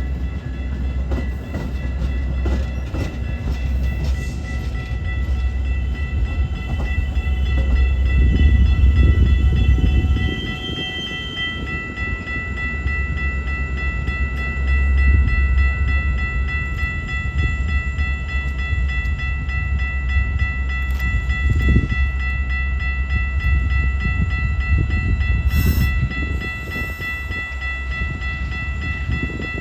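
A train rolling past close by: a steady heavy rumble, with a thin high ringing tone held throughout and scattered clicks.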